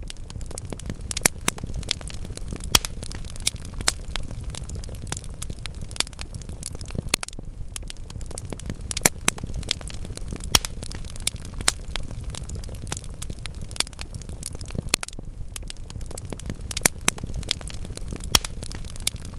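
Wood fire burning in a fireplace, crackling steadily with frequent sharp pops from the logs over a low, even rush of flame.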